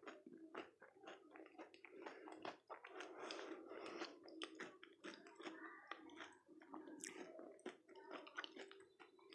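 Quiet, close-up chewing of dahi golgappe, crisp fried puri shells eaten with yogurt, made up of many small quick crackles and clicks.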